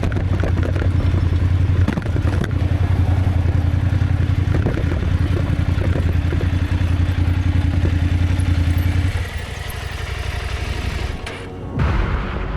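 KTM 890 Adventure's parallel-twin engine running at a steady speed under way. About nine seconds in the engine note drops away, as when rolling off the throttle.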